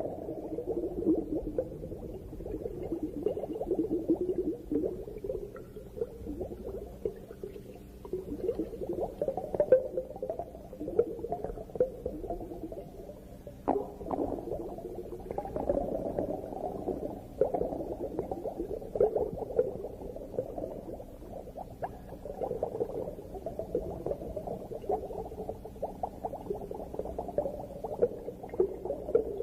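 Muffled underwater bubbling and gurgling with dense crackling, recorded underwater.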